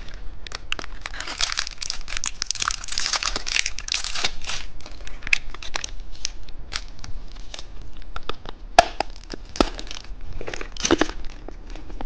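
Crinkling and tearing of candy packaging being handled and opened. The crinkling is densest for the first few seconds, then thins to scattered crackles and clicks, with another dense burst near the end.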